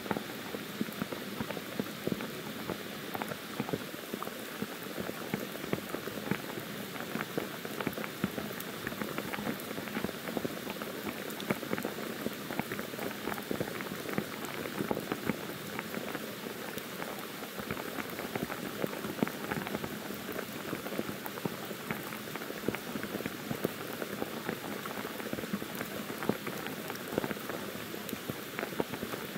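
Pouring rain falling steadily on forest leaves and a paved road, a dense, even patter of individual drops.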